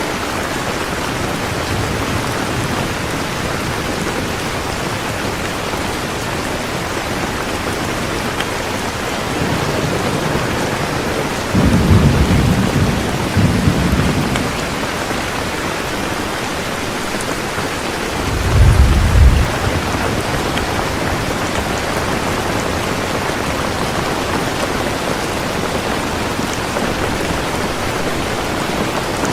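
Steady rain, with two low rumbles of thunder breaking through: a longer one about twelve seconds in and a shorter one about nineteen seconds in.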